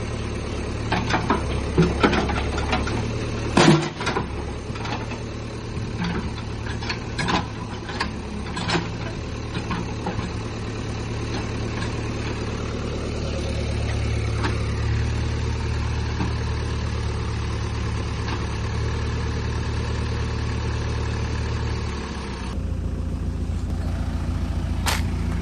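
Diesel engine of a JCB 3DX backhoe loader idling steadily, with scattered sharp metallic knocks and clicks during the first nine seconds or so. The engine sound shifts abruptly about 22 seconds in.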